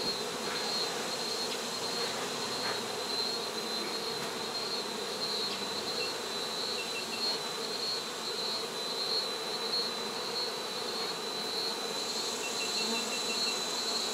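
Honey bees from an exposed colony buzzing in a steady, continuous drone.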